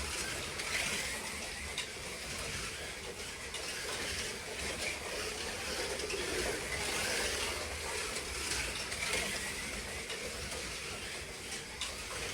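Several slot cars lapping a track: a steady hiss and whine from their small electric motors, gears and pickup braids, swelling and fading as cars pass, with a few faint clicks.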